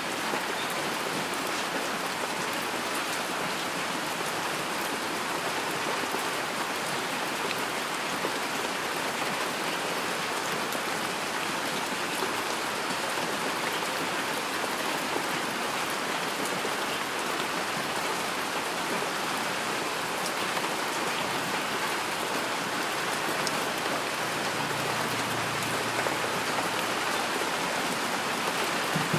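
Steady heavy rain falling, an even, unbroken hiss of countless drops.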